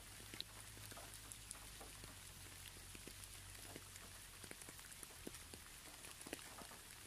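Quiet rain: a soft, even hiss with many scattered, irregular drop ticks.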